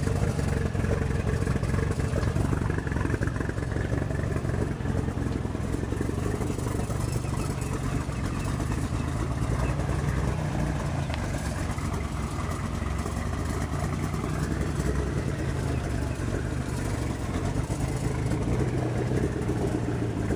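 1999 Lotus Esprit's twin-turbo 3.5-litre V8 idling steadily with a rapid low pulsing, a rough idle after a cold start.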